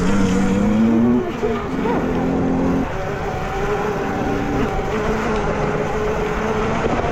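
Dirt bike motors running at speed on a motocross track, several held pitches that step down and shift, with some wind noise.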